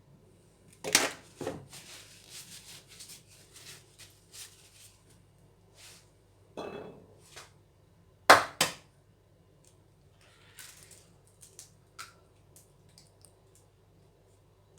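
Eggs being cracked against a bowl and separated, heard as sharp knocks and small clinks of shell and dishes; the loudest knocks come about a second in and again a little past the middle.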